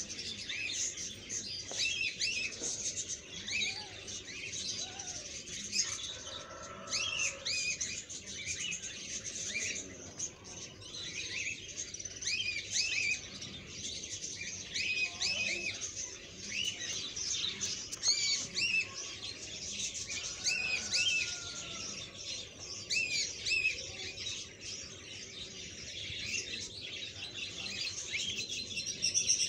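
Many small birds chirping, with quick overlapping chirps that go on without a break.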